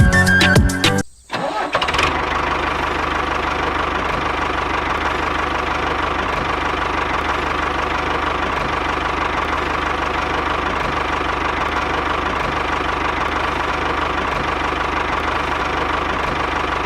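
Background music stops about a second in; then an engine-like motor starts up and runs steadily at idle with a fast, even pulse.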